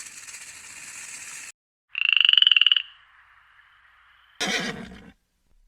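A series of animal calls. First a high, rapidly pulsing trill that cuts off about a second and a half in. Then a loud, fast-pulsed high-pitched call lasting under a second that trails away in a thin tone. Near the end comes a short, harsh blast.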